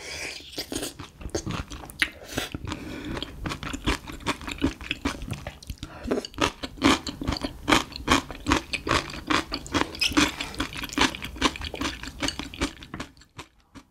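Close-miked wet chewing of a saucy mouthful of spicy stir-fried small octopus (nakji bokkeum) with bean sprouts: rapid, sticky, crunchy mouth sounds that die down near the end.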